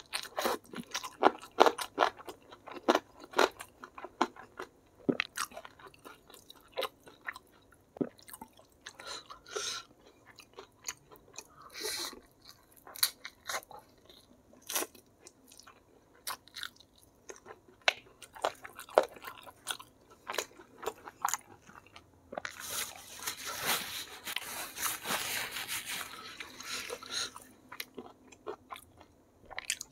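Close-up eating sounds of a man biting and chewing spicy rica-rica chicken: wet mouth smacks and crunchy bites in irregular clicks, with a denser stretch of crackling chewing for a few seconds near the end.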